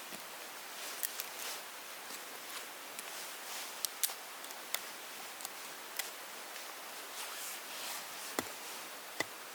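Irregular sharp clicks and ticks over a steady hiss.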